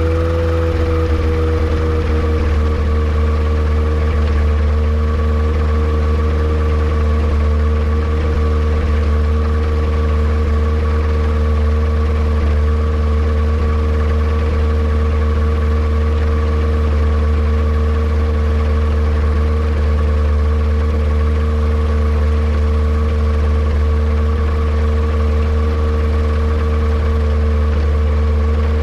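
Yamaha Apex four-cylinder four-stroke engine in a Kitfox airplane running steadily, its pitch easing down slightly in the first couple of seconds and then holding. It is running while being checked for a misfire that is suspected to come from a vacuum leak.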